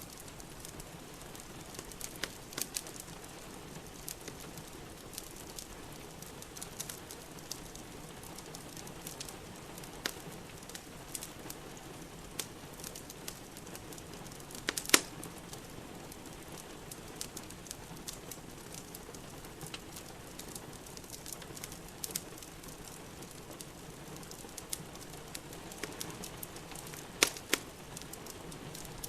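A wood fire crackling in a fireplace, with scattered sharp pops, the loudest about halfway through and again near the end, over the steady hiss of rain.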